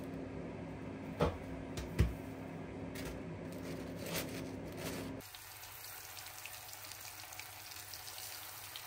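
Matlouh flatbread loaves being handled into a cloth-lined basket, with two sharp knocks about a second apart over a low steady hum. About five seconds in, this cuts to breaded chicken tenders frying in shallow oil, a fine steady crackling sizzle.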